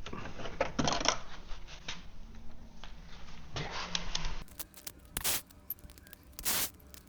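Hand tools and small metal engine parts clinking, clicking and scraping as a thermostat housing is taken apart by hand, in short irregular bursts.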